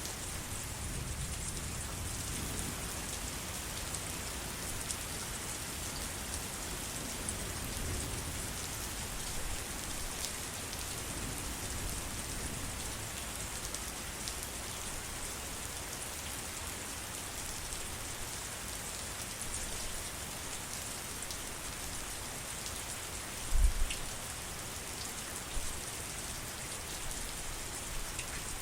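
Steady rain falling, an even hiss with individual drops ticking throughout. A single brief low thump stands out about three-quarters of the way through.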